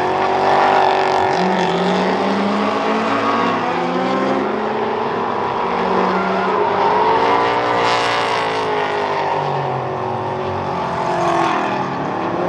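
Drift cars' engines revving hard, the pitch rising and falling again and again as the cars slide, with tyres squealing.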